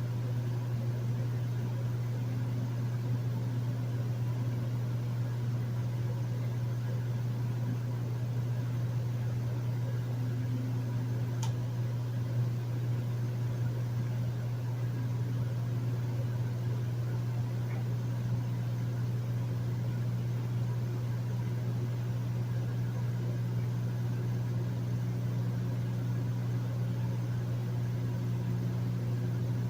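Hotel room air conditioner running steadily: a low, even hum with a hiss of moving air, and one faint tick about a third of the way in.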